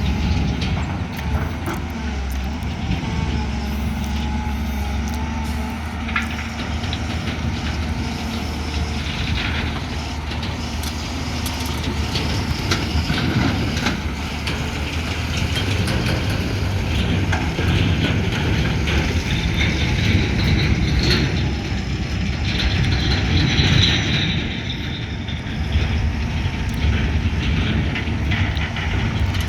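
Heavy diesel machinery at work on an excavation site: a JCB JS215 tracked excavator's engine running steadily under load, with scattered clanks and scrapes.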